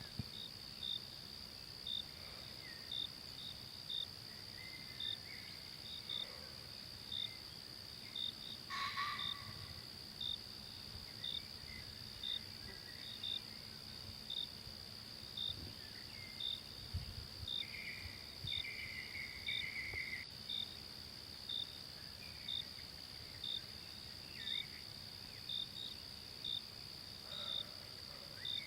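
Forest insects: a steady high drone with a short cricket-like chirp repeating about once a second, and a few faint bird calls, the clearest about nine seconds in.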